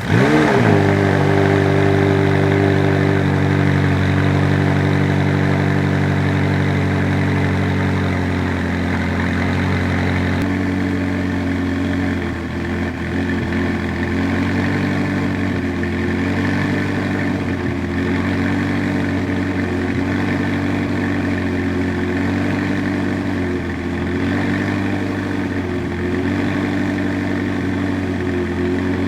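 McLaren 570S's twin-turbo V8 starting through a RYFT titanium exhaust: it fires with a quick rising flare, then settles into a steady fast idle. The idle drops a little about ten seconds in and then wavers gently every couple of seconds.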